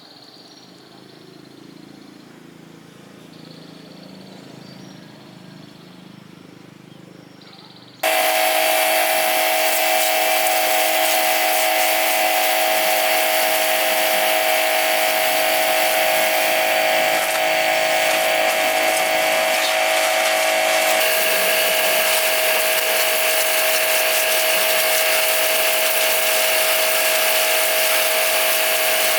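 A quiet low hum, then about eight seconds in a power tool starts abruptly and runs loud and steady, a high motor whine with a hissing grinding noise over it.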